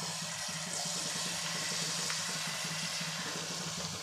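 Jalebi batter sizzling in hot oil as it is squeezed into the pan in spirals, a steady frying hiss, with a low steady hum underneath.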